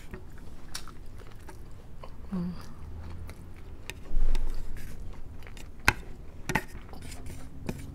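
Close-up chewing and biting while eating garlic butter shrimp and crab, with a few sharp crunches and clicks. A louder low thump comes about four seconds in.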